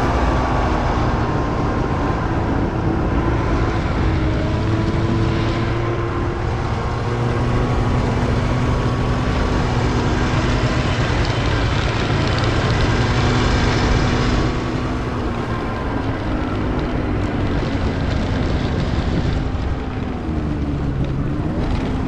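Snowmobile engine running under way, its pitch shifting slightly as the throttle is held fairly even, with wind buffeting the microphone.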